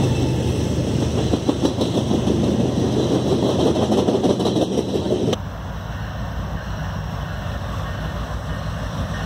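Freight train container cars rolling past close by, their wheels and steel frames clattering and rattling fast on the rails. About five seconds in the sound switches abruptly to a quieter, low rumble of diesel locomotives approaching from a distance.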